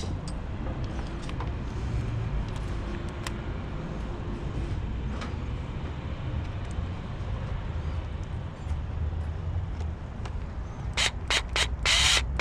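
Low steady rumble with a few faint clicks and taps of hand work, then near the end several short pulses of a cordless drill/driver motor, the last spinning up with a rising whine.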